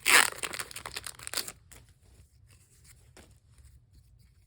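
Foil booster-pack wrapper being torn open and crinkled, loudest just after the start and stopping about a second and a half in, followed by a few faint taps.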